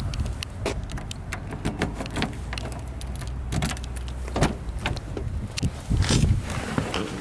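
A car's low engine hum with many short clicks and knocks scattered over it, like handling and rattles around a vehicle.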